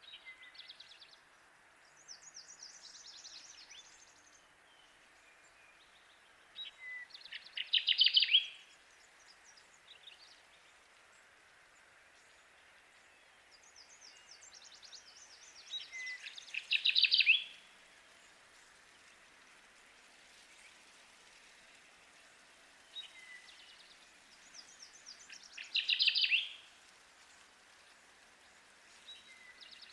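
Kirtland's warbler singing its loud, short song three times, about nine seconds apart, each phrase lasting about a second and a half. Fainter, higher chirping phrases from other birds come between the songs over a steady background hiss.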